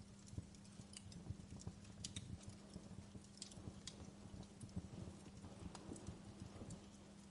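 Faint wood fire crackling: irregular sharp snaps and pops over a low, uneven rumble, with a steady low hum underneath.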